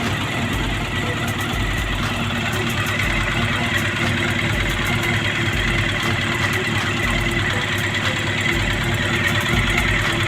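Honda CB400 Super Four inline-four engine idling with a fast, steady mechanical ticking over the engine note. A new camshaft has not cured it, and the owner takes it for chain noise.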